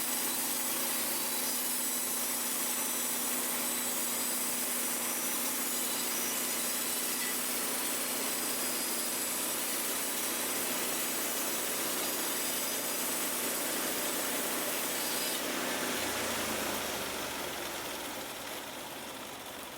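Engine-driven Norwood portable band sawmill running with its blade in a log, milling a siding board. About 16 seconds in the sawing noise drops off and the engine settles lower as the cut ends.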